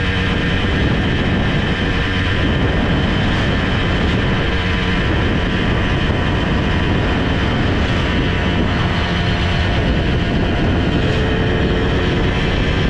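Simson S51 moped's 85cc two-stroke engine running steadily under way, heard from on board.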